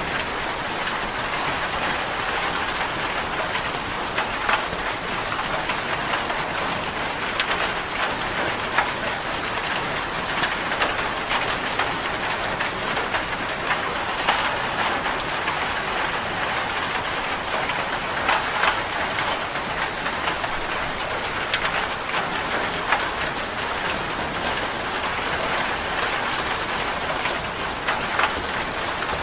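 Steady rain falling, an even hiss with scattered sharp ticks through it.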